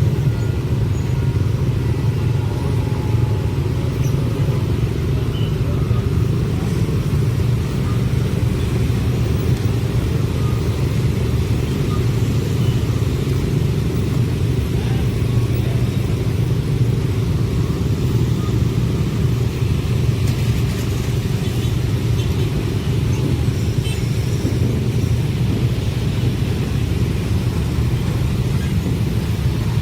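Long passenger train passing close by at speed, a steady low rumble of wheels on rails that holds an even level throughout.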